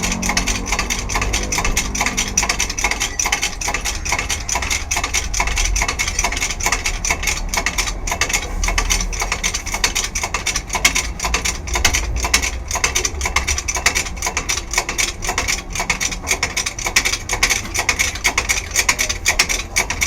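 Rapid mechanical clicking from a hand tool at work on the car, many clicks a second and continuous throughout.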